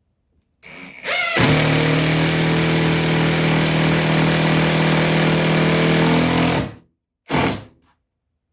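An electric power tool starts with a rising whine and runs steadily for about five seconds, then stops. It gives one more short burst a moment later.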